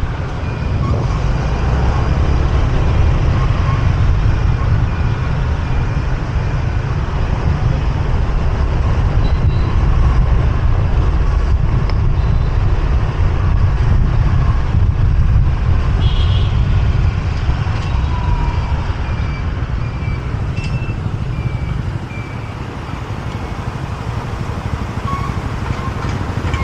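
Riding a motorbike through dense city traffic: a steady heavy rumble of wind and engines, with a short horn toot about sixteen seconds in and a few fainter toots.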